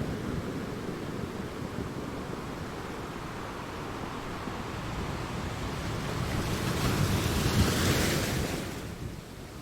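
Sea waves crashing against rocks: a steady low rumble of surf that swells into a louder crash with a rush of hiss near the end, then falls away.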